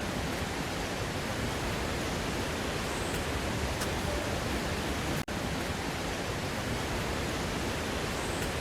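Waterfall water rushing steadily over rocks as a dense, even noise. It drops out for an instant about five seconds in.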